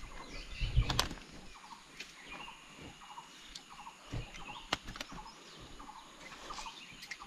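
Wild birds calling repeatedly in forest, short patterned calls over the rush of the river. About a second in there is a loud thump with sharp clicks, and a few more clicks come near the middle.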